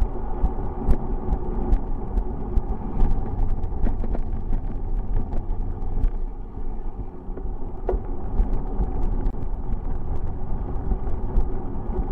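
Steady low rumble of wind and road noise on the microphone of a moving bicycle, with many small clicks and rattles scattered through it.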